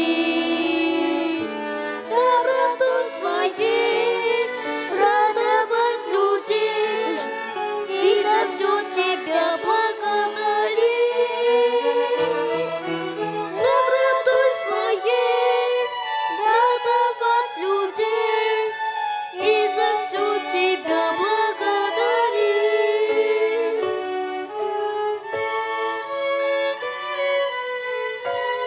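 Violin ensemble playing a hymn melody together in several parts, the notes held with vibrato.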